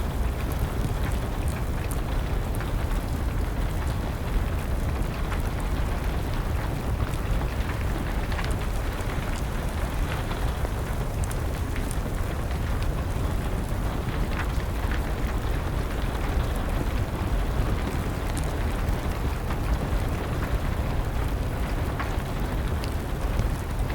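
Steady rain with a low rushing sound, mixed with a wood fire crackling in scattered sharp pops.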